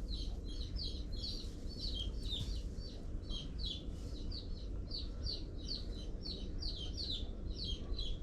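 Chicks peeping continuously: short, high, falling peeps about four a second, overlapping as from several birds.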